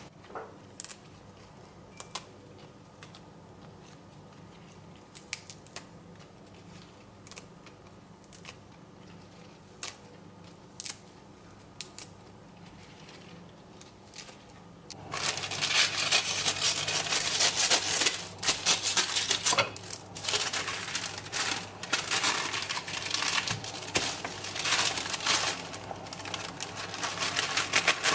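Kitchen food preparation: scattered light clicks and taps for about fifteen seconds, then a loud, dense run of rubbing and scraping strokes.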